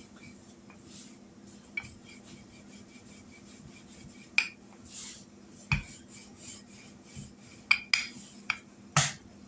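Rolling pin rolling out dumpling dough on a floured surface: soft rubbing with scattered sharp clicks and knocks, several coming close together near the end, over a steady low hum.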